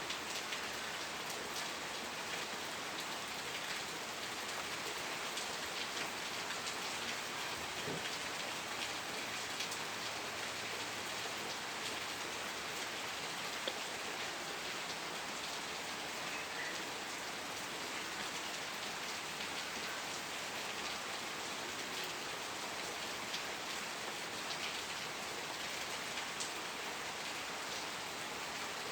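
Steady rain falling, an even hiss with many small drops pattering on surfaces.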